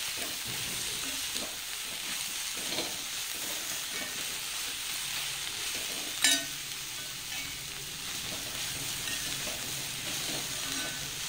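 Chopped cheera (amaranth) greens and stalks sizzling in a hot metal kadai while being stirred and turned with a spoon, with one sharp knock about six seconds in.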